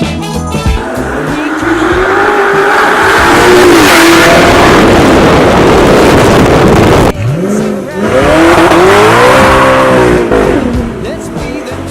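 Straight-piped 2008 Audi R8's V8 exhaust under hard acceleration: the pitch climbs for a few seconds and cuts off sharply about seven seconds in, then climbs again and falls back near the end.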